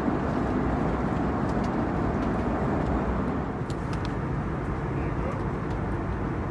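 Steady cabin noise of an Airbus A321neoLR: an even rush of engine and airflow heard from inside the passenger cabin.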